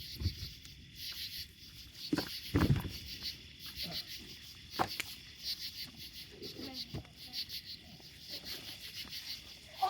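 Insects chirping steadily in a fast, even pulse, with a few short sharp cracks or knocks scattered through.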